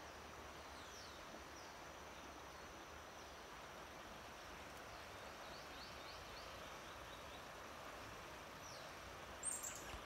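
Faint birdsong of short, falling chirps, with a quick run of several notes about halfway through, over a steady low hiss. A brief, louder high-pitched sound comes near the end.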